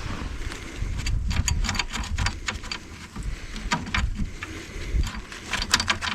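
Scattered sharp clicks and light metallic clatters of hand tools and a panel being handled while a side cover is worked off a compact tractor, bunched about a second in, near four seconds and just before the end, over a low steady rumble.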